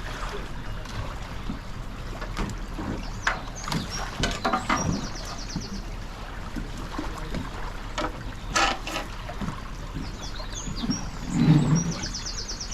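Scattered paddle splashes and hollow knocks from a racing kayak being launched and paddled away, with a louder low thump near the end.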